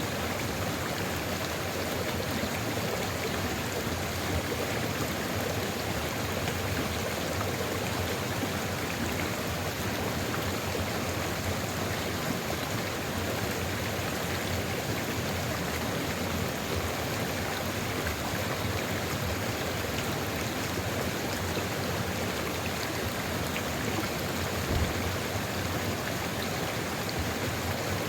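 Sulfur river flowing, a steady, even rush of water. A brief low thump near the end.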